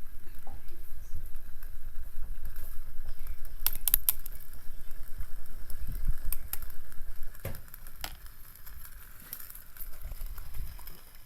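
Wind rumbling on the microphone beside a small wood fire, with scattered sharp crackles and clicks; the wind eases about seven seconds in.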